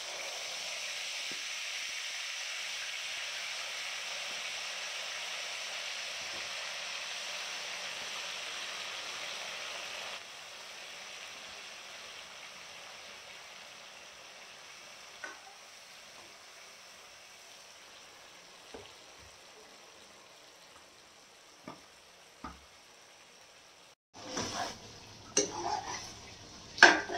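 Marinated chicken sizzling in hot oil in a metal kadhai. The hiss is loud at first, drops suddenly to a quieter sizzle about ten seconds in, then fades. Near the end a steel ladle knocks and scrapes against the pan as the chicken is stirred.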